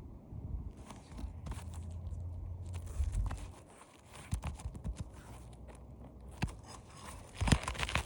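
Crunching and scraping on asphalt roof shingles, with scattered sharp clicks, as a shingle is worked at by hand and tool; a denser burst of scraping comes near the end.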